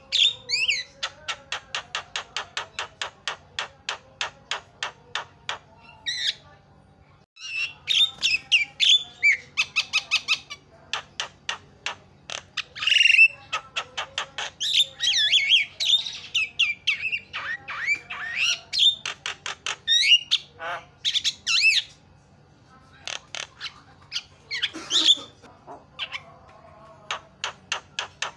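Javan myna (jalak kebo) calling: runs of rapid clicking notes, about four or five a second, broken by harsh squawks and whistled calls.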